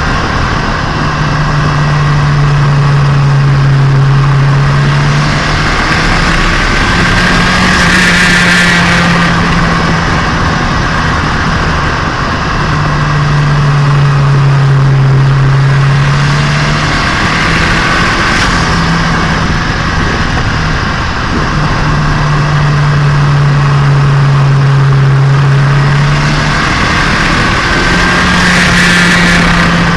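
Turbocharged Nissan Micra engine heard onboard while driving on a break-in run, with a steady low drone that steps between two pitches and swells in noise about every ten seconds.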